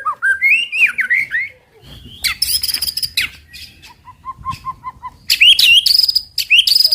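White-rumped shama (murai batu) singing: rising whistled phrases, then loud bursts of high, rapid notes, with a run of soft, evenly repeated notes about four seconds in.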